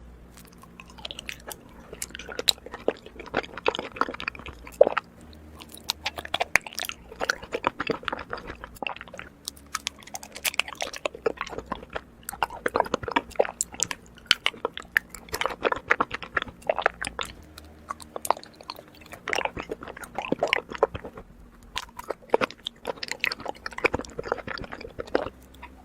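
Close-up chewing of honeycomb: rapid wet clicks and crackles of the wax comb being bitten and chewed, in bouts of a few seconds with short pauses between.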